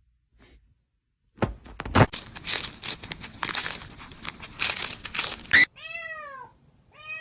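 A few seconds of rustling and crinkling with clicks, then a cat meows twice near the end, each meow rising and then falling in pitch.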